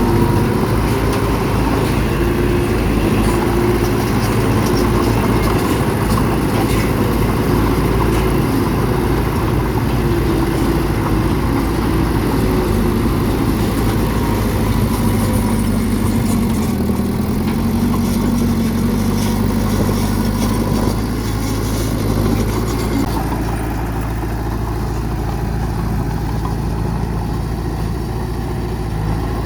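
Bulldozer's diesel engine running steadily at work, its note shifting a little around the middle and easing slightly in the last few seconds.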